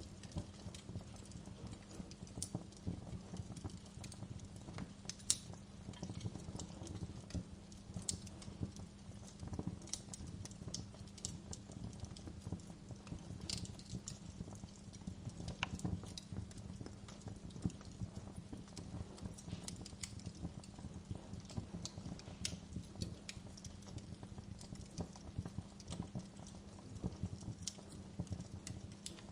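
Wood fire in a fireplace crackling, with frequent sharp, irregular pops over a steady low rumble of burning.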